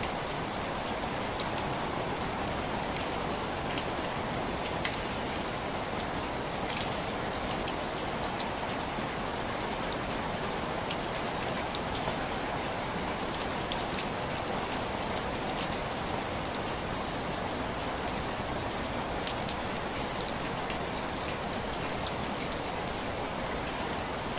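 Steady rain hiss with scattered sharp drop ticks, like rain tapping on window glass.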